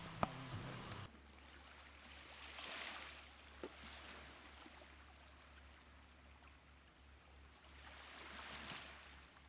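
Faint small waves washing onto a beach, swelling and falling back twice a few seconds apart.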